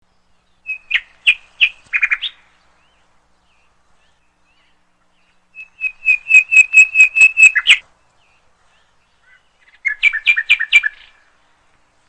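Small songbird calling in three bursts of quick repeated chirps. The middle burst is the longest, about a dozen notes, and there are pauses of a few seconds between bursts.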